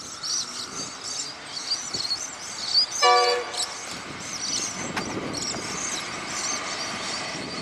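Diesel freight train running, with a short horn blast about three seconds in, over high chirping sounds.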